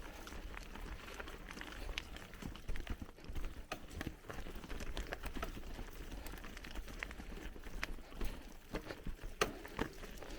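Bicycle rolling over a rough forest trail: tyre noise on dirt and stones with irregular clicks and knocks as the bike rattles over bumps, over a low rumble.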